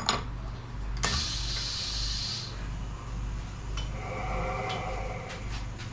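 Metal clicks and handling as an 8 mm end mill is fitted into the CNC router's spindle, with a sharp click about a second in followed by a hiss lasting about a second and a half, over a steady low hum.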